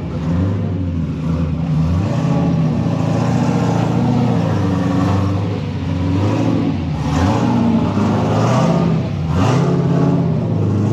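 A performance truck's engine driven hard on an autocross course, revving up and easing off over and over, its pitch climbing and dropping every second or two as the driver accelerates, lifts and brakes between cones.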